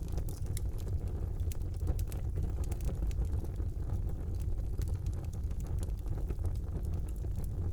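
Wood fire burning in a fireplace: a steady low rumble of the flames with frequent sharp crackles and pops of burning logs.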